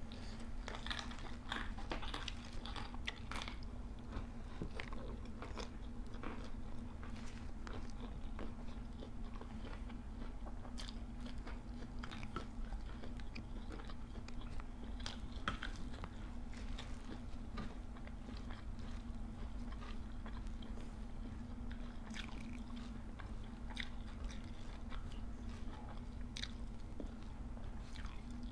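Close-up chewing and biting of raw vegetables, with irregular crisp crunches and mouth clicks. A steady low hum runs underneath.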